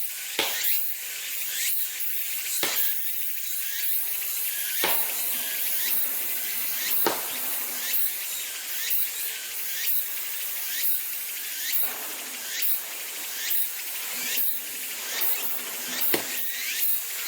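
Insects chirping in a rhythmic, high-pitched pulsing chorus, with a few sharp knocks now and then.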